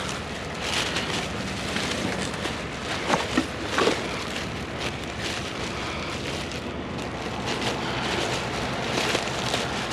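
Plastic trash bag rustling and crinkling as it is handled and tied shut with gloved hands, with a few louder crackles about three to four seconds in.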